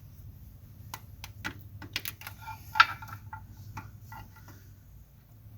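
A quick, irregular run of light clicks and taps from metal parts being handled and fitted together, loudest about three seconds in, over a low steady hum.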